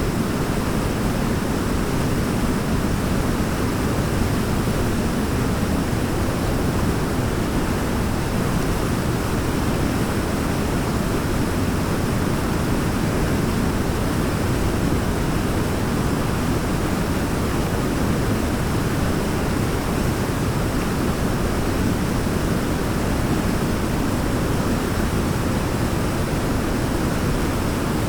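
Waterfall pouring steadily: an unbroken, deep, even rush of falling water.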